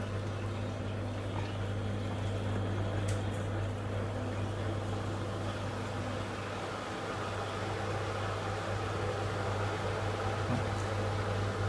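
Blomberg WMI7462W20 integrated washing machine running its drum during a rinse, a steady hum with an even wash of noise over it.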